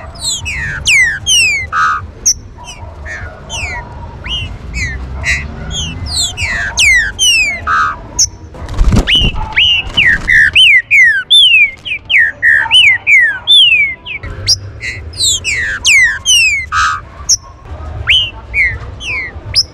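Green-winged saltators (trinca-ferro) calling: a dense, overlapping run of short, sharp whistled notes, many sliding down in pitch. There is a single low thump about nine seconds in.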